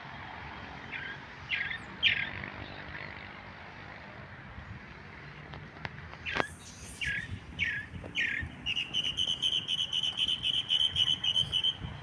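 Small birds singing: a few short, sharp downward-sweeping notes, then a fast, even trill of repeated chirps lasting about three seconds near the end.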